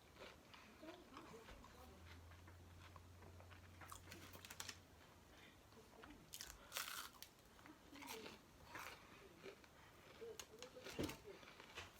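Close-miked eating sounds: quiet chewing and crunching bites of fast food, with a few brief crinkles and rustles, likely from a wrapper or bag, around 7 and 11 seconds in.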